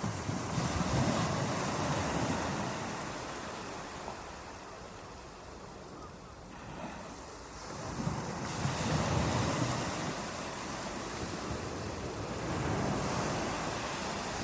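Ocean surf: waves washing in and drawing back, surging loudest about a second in, again around nine seconds, and once more near the end, with a lull in between.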